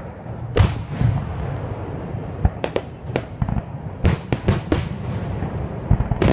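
Fireworks bursting: about ten sharp bangs with echoing tails, several coming in quick clusters around the middle, over a continuous low rumble.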